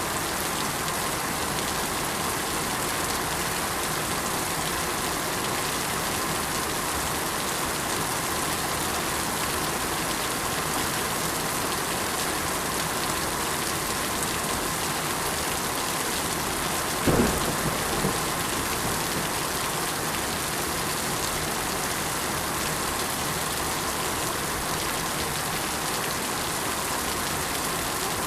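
Steady rain falling. About two-thirds of the way through comes one short, sharp clap of thunder, with a weaker second crack a second later.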